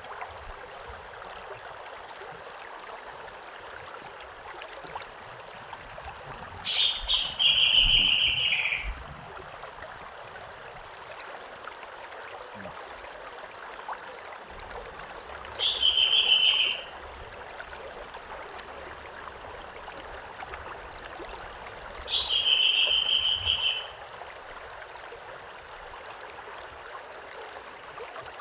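A river or stream running steadily, with a songbird singing three times, each phrase a brief high note followed by a short trill.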